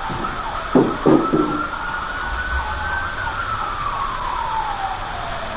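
Emergency siren wailing, its pitch rising slowly for about three seconds and then falling again. Three short knocks land close together about a second in.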